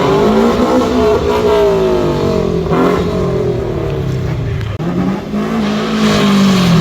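Car engine revving hard, its pitch climbing and dropping twice.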